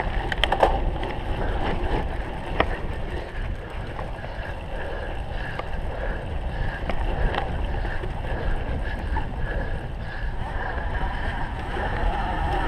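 Cyclocross bike ridden hard over rough ground, with steady wind noise on the microphone and a few sharp clicks and rattles from the bike near the start and again about two and a half seconds in.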